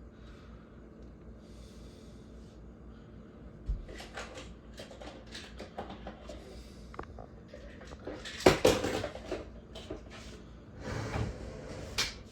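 Indoor knocks and clatter, like a cupboard or drawer being opened and shut. A few light taps start about four seconds in, a loud bang comes about eight and a half seconds in, and another sharp knock comes near the end.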